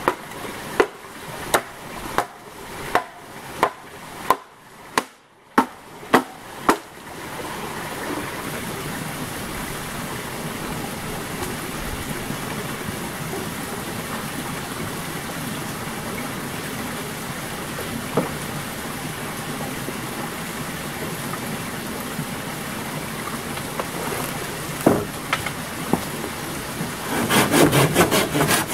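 Hand-tool work on wood: evenly spaced knocks, about one and a half a second, for the first seven seconds, then a steady rushing noise. Fast rhythmic sawing strokes start near the end.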